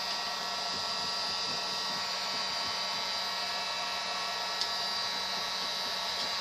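A small electric blower motor running steadily with a constant whine, and one short click a little after four and a half seconds in.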